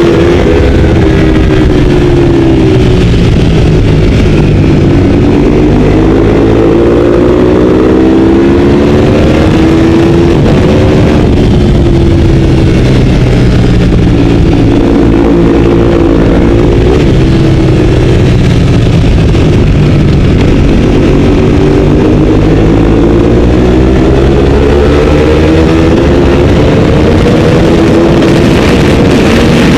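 Ducati 848's V-twin engine at race pace, heard from the bike itself, its pitch climbing and dropping again and again as it is run up through the gears and shut off for corners.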